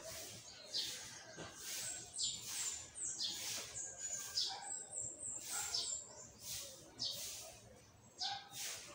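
Small birds chirping over and over: short high chirps that fall in pitch, about two a second.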